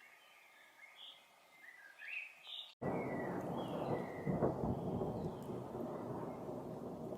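Small songbirds chirping, then, after a momentary dropout nearly three seconds in, a loud rolling rumble of thunder starts abruptly and carries on, with the bird chirps still heard over it.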